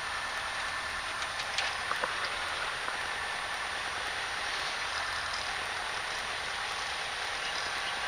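Cessna 152's four-cylinder Lycoming engine idling on the ground, a steady noisy drone, with a few light clicks about one and a half to two seconds in.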